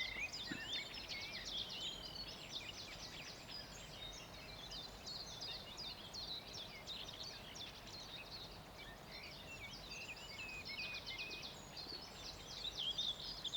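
Many birds singing and chirping at once, a dense chorus of short high calls and trills over faint outdoor background noise.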